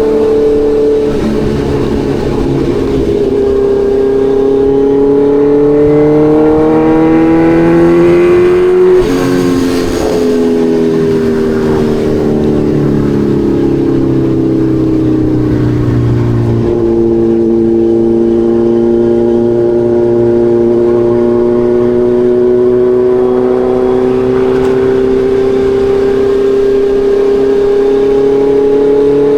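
Kawasaki Ninja 1100SX's inline-four engine under way. It accelerates with rising pitch until a gear change about nine seconds in, then the pitch falls as it slows. After another change it runs steadily, its pitch creeping up near the end.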